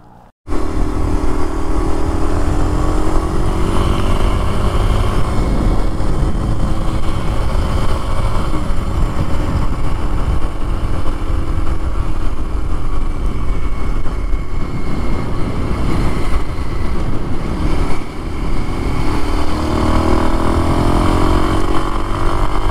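Kawasaki KLX230 dual-sport motorcycle's single-cylinder four-stroke engine running while riding at road speed, with heavy wind rumble. Near the end the engine note dips briefly, then rises as the bike picks up speed.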